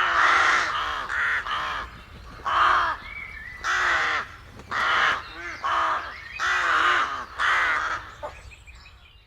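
A bird giving a long series of short, harsh calls, about ten in nine seconds, fading away near the end.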